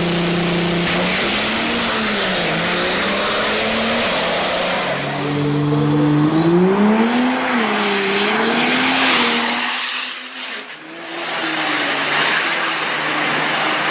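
Diesel truck engine running hard under load, its pitch wavering up and down, with a high turbo whistle that climbs steeply about five seconds in and holds. Around ten seconds in the engine briefly backs off, then picks up again.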